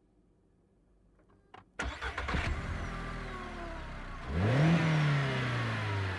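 A car engine starting: a faint click, then the engine catches suddenly and runs. About halfway through it revs up in a quick rise and then slowly winds down as it settles.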